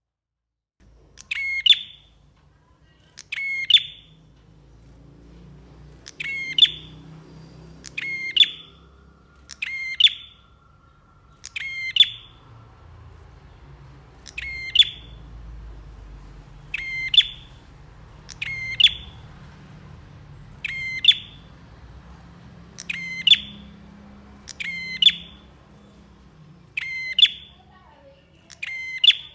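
Prinia (prenjak) repeating a short, sharp, high call about once every two seconds, starting after a second and a half of silence, with a faint low rumble behind.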